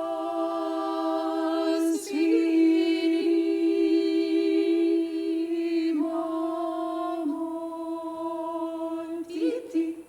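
A small vocal ensemble singing a cappella in long, steady held chords. The voices break and re-enter about two seconds in and again about six seconds in, and the chord stops at the end.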